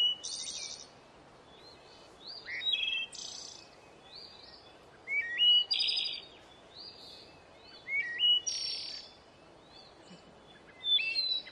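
A songbird repeats the same short song five times, about every three seconds. Each song is a few stepped whistles followed by a harsh, buzzy note.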